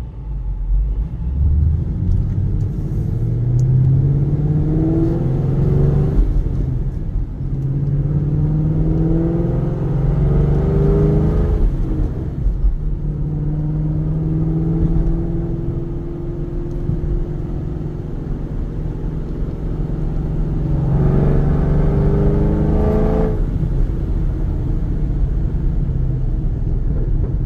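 Procharged 2010 Chevrolet Camaro SS's 6.2-litre V8, breathing through headers and a Corsa exhaust, accelerating in several pulls. The pitch climbs through each pull and drops back between them, about four times. The ProCharger supercharger's whine is faintly audible.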